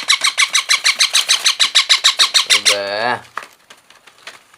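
Baby parrot's rapid, rhythmic food-begging calls, about eight a second, stopping about three seconds in.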